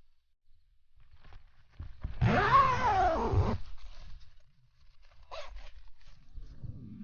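A cat meowing: one long drawn-out meow that rises and falls in pitch, then a short call a couple of seconds later.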